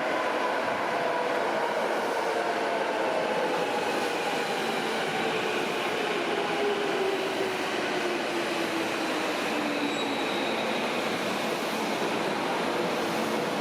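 Electric subway train running through an underground station and slowing down, its motor whine falling steadily in pitch over the first ten seconds above a constant rumble of wheels and air.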